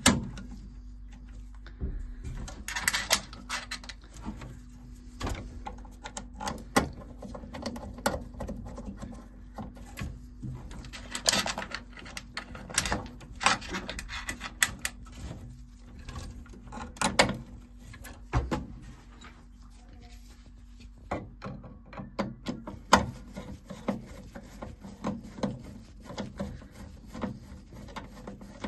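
Hand work on boiler internals: irregular clicks, knocks and scraping as tools and small metal and plastic parts are handled, with bursts of activity and short pauses between them.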